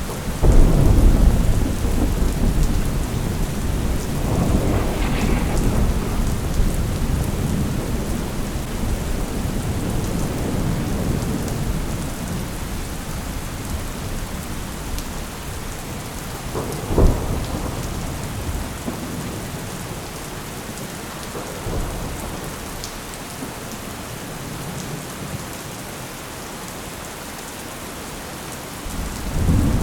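Thunderstorm: steady rain with rolling thunder that starts about a second in and rumbles on for many seconds, a sharp crack of thunder about halfway through, then a quieter stretch of rain before another rumble begins at the very end.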